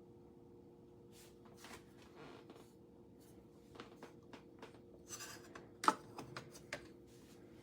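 Light clicks, taps and rubbing from small objects being handled, over a faint steady hum. The sharpest click comes about six seconds in.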